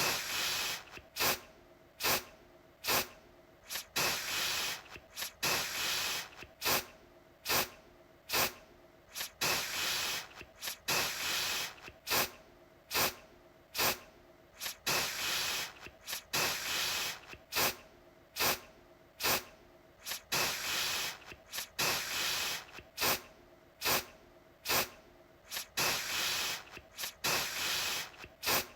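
Aerosol deodorant can spraying in repeated bursts, some brief puffs and some longer hisses of about a second, with short pauses between.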